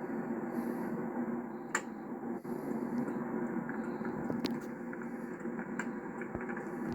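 Steady road and engine noise inside the cabin of a 1991 Chevrolet Caprice Classic on the move, with a few light clicks.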